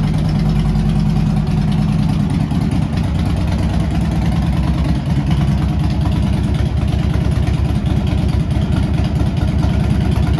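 2007 Harley-Davidson Street Glide's Twin Cam 96 V-twin engine idling, with a steady pulsing exhaust beat.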